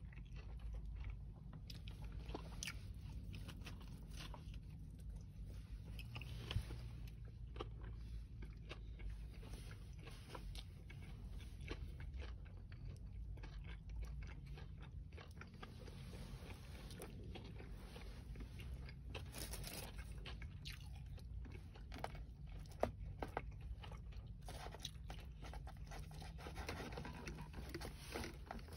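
Close-up chewing and crunching of crispy breaded fried chicken fingers, with many small crackles from the breading and a couple of sharper crunches, over a steady low hum.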